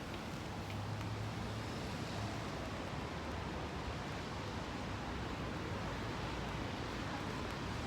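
Steady rushing noise of strong wind and rain on a busy city street, with road traffic mixed in.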